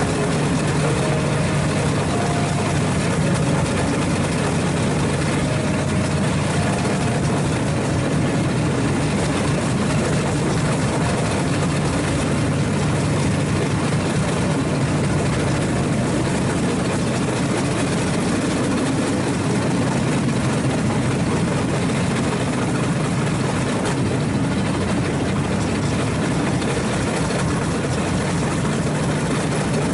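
A steady, unchanging engine drone.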